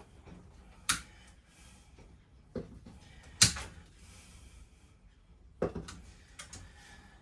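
A few sharp, separate knocks and clunks a second or two apart, the loudest about three and a half seconds in: parts and hand tools being handled while an RV interior is stripped.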